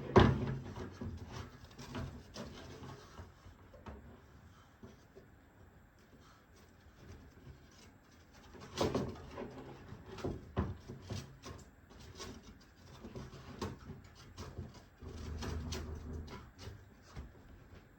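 Irregular knocks, clicks and rubbing of light model-aircraft parts being handled and test-fitted on a workbench, with a loud knock at the start and a burst of handling about halfway through.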